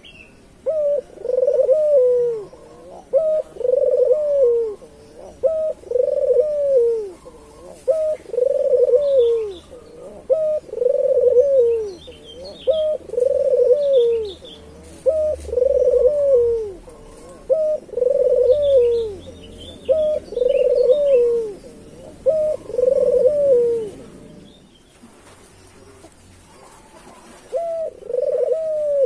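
Puter dove (Barbary dove) cooing over and over, a low rounded coo about every two seconds, each opening with a short clipped note. The calls pause for a few seconds and then start again near the end. Faint chirps from small birds sound in the background.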